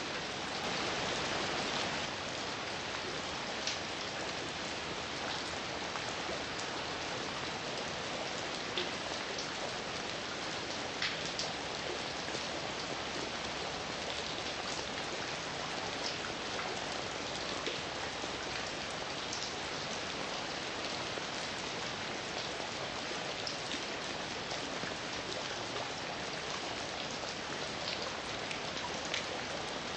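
Heavy rain falling steadily, with sharp taps of individual drops scattered throughout.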